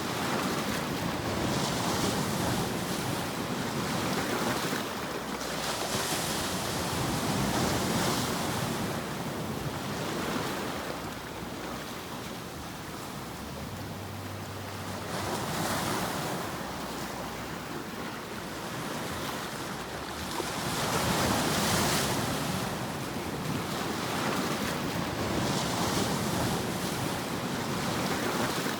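Ocean surf: a steady rushing hiss of waves that swells and eases every few seconds.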